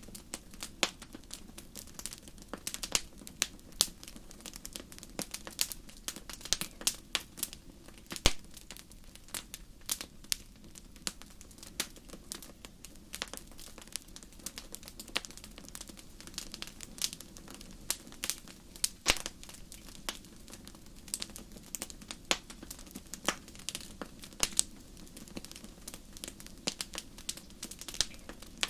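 Wood fire in a fireplace crackling: irregular sharp pops and snaps, many a second, over a low steady hiss of burning.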